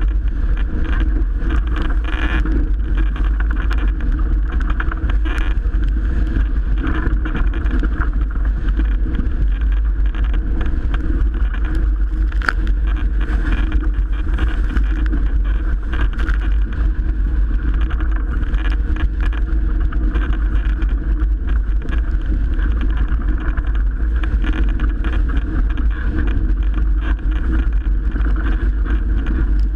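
Strong wind buffeting the microphone, mixed with water rushing past the hull of a Melges 24 sailboat sailing in winds of 30+ knots, as a steady loud noise.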